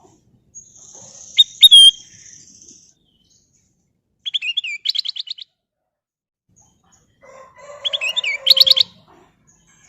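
Kutilang emas (a bulbul) singing three short bursts of quick, chirpy whistled notes, each about a second or two long, with pauses between them.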